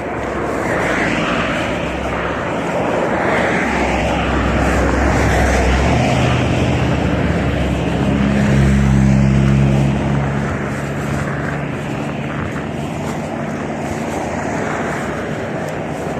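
A vehicle running, with steady rushing wind and road noise; a low engine drone grows stronger from about six to ten seconds in, then eases.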